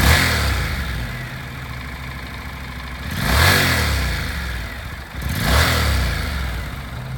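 Honda CTX700's 670cc liquid-cooled parallel-twin engine catching as it starts, settling into idle, then revved twice, each time rising and dropping back to idle.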